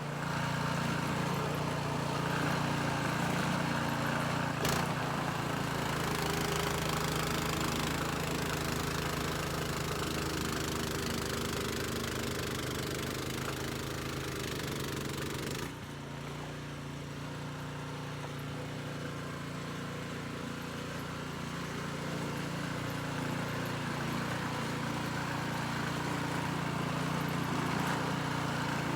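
Troy-Bilt gasoline snowblower engine running steadily. A sharp click comes about five seconds in, and a little past halfway the sound suddenly drops a few decibels and turns duller.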